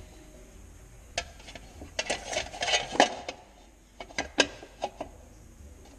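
Scattered light metallic clinks and knocks of tools and parts being handled at a workbench, several in quick succession about two to three seconds in and a few more near the end.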